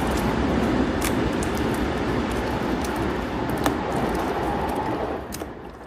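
Train running past, a steady rumble with scattered clicks, fading out near the end.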